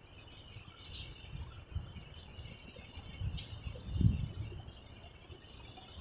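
Outdoor ambience: scattered short high bird chirps over irregular low rumbling gusts, with one stronger gust about four seconds in.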